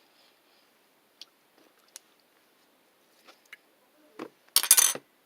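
Scattered faint clicks and taps, then a loud crackling crunch lasting about half a second near the end.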